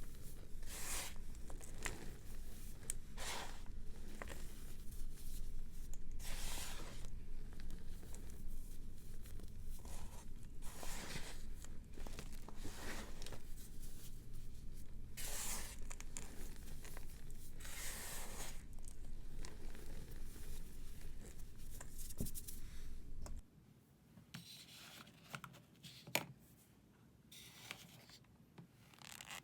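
Dry, brittle material being crushed and crumbled, one crunching stroke every second or two. Near the end a background hum drops out, and a few softer, quieter crunches follow.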